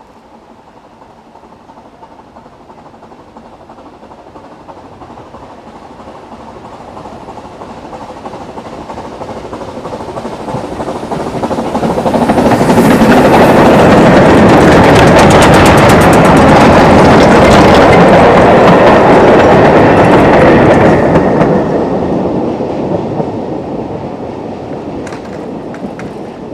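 A Ffestiniog Railway narrow-gauge train passes close by. It grows steadily louder over about twelve seconds, then rattles past with rapid wheel clicks for several seconds, and fades away. A thin high squeal comes near the end of the loudest part.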